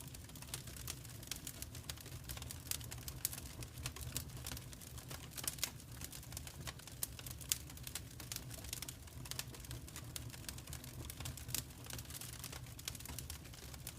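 Wood fire in a fireplace crackling: a dense, irregular patter of small pops and snaps over a steady low rumble of the flames.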